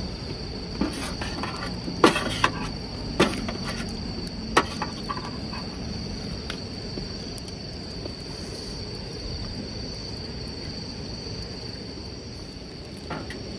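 A steady, high-pitched insect chorus, with a handful of sharp clicks and knocks in the first few seconds and one more near the end.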